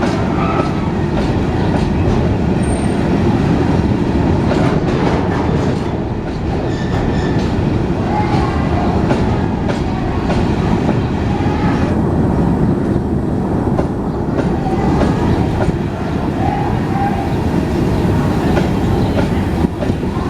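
Empty coal wagons of a long freight train rolling past, wheels clicking steadily over rail joints under a continuous rumble, with a few brief faint wheel squeals.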